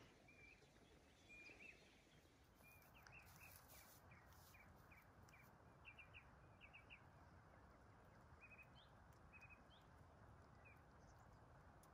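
Near silence outdoors, broken by faint, short, high bird chirps that come singly and in small clusters, some sweeping upward, over a low, steady background hush.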